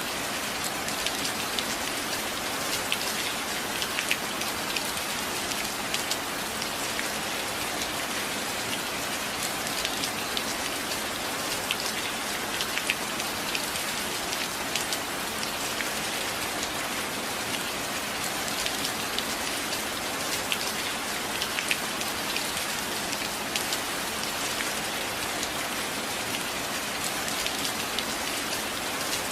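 Steady rain: a constant hiss with many small, sharp drop ticks scattered through it.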